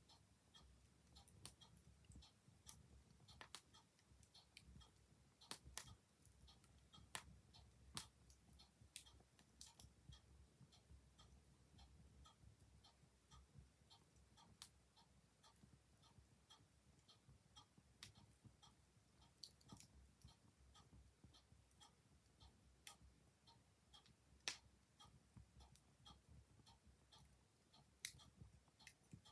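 Faint wood fire crackling with sharp, irregular pops, over the steady ticking of a clock.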